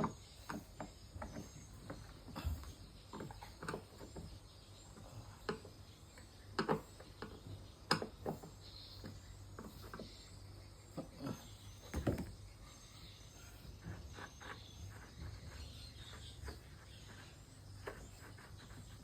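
Irregular clicks and knocks of hand tools and metal parts being handled while a twin-tub washing machine's gearbox is fitted and checked. The loudest knocks come about 8 and 12 seconds in.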